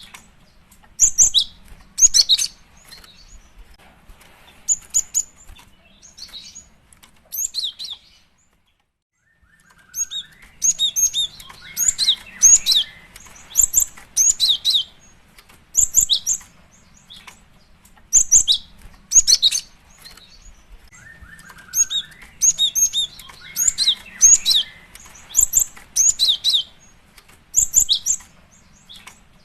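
Female cinereous tit (gelatik batu) calling: short, high, sharp chirps in quick clusters of two to four, repeated again and again, with a brief full break about eight seconds in. It is a female's call to a male, used as a lure for gelatik.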